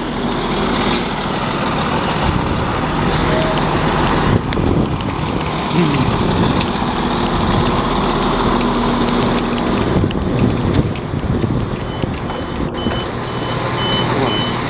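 Southern Class 171 Turbostar diesel multiple units running loud, their engines droning with the pitch shifting up and down. A short high beep repeats steadily near the end.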